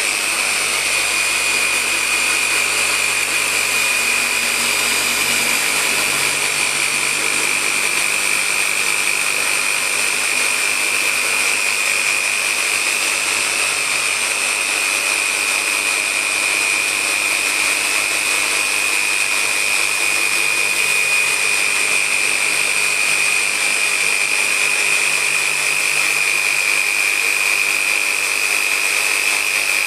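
Random orbital polisher with a 19mm throw and a microfiber pad running steadily on car paint, with a constant high whine over the motor. It is polishing out 4000-grit wet-sanding marks.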